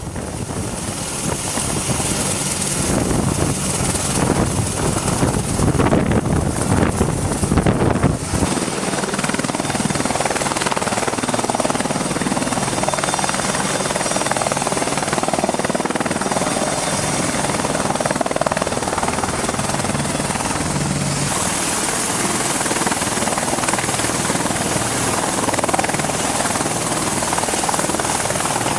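Helicopter rotor and turbine engine running steadily and loudly, a dense whine and wash. The deep rumble drops away about eight seconds in, and the higher whine shifts again about 21 seconds in.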